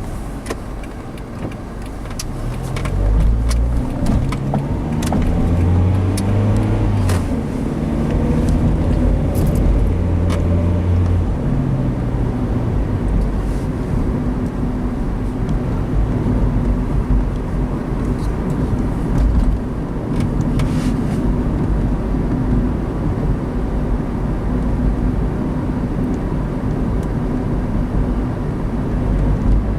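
Car engine pulling away and accelerating through the gears, its pitch climbing in steps over the first ten seconds or so, then settling into a steady cruise with road noise, heard from inside the cabin.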